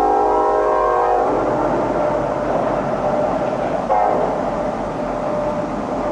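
Diesel freight locomotive's air horn sounding a held chord that cuts off about a second in. The rumble and rattle of a freight train rolling past follows, with a short horn blip about four seconds in.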